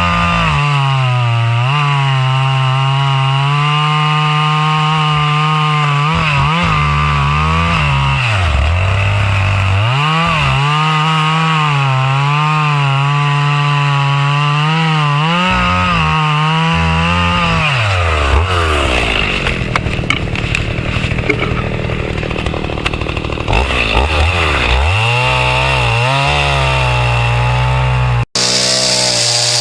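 Chainsaw running at high revs as it cuts through a thick tree trunk, its note dipping briefly in pitch several times. For a stretch about two-thirds of the way in the steady engine note gives way to a rougher, ragged sound, and the sound cuts out for an instant near the end.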